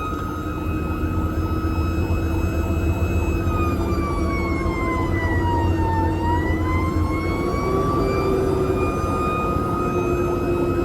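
Fire engine running with a steady low rumble and a high whine. About halfway through the whine slowly drops in pitch, then climbs back to where it was.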